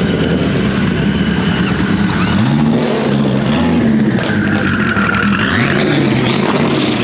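Loud car engine revving, its pitch dropping and climbing again a few times, with exhaust noise underneath.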